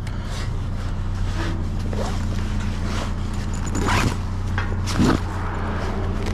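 Steady low hum of an idling vehicle engine, with a couple of sharp knocks from things being handled about four and five seconds in.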